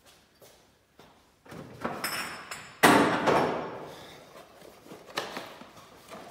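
Handling noises on a workbench: scraping and small knocks, then one loud sudden clatter about three seconds in that dies away over about a second, followed by a few lighter knocks.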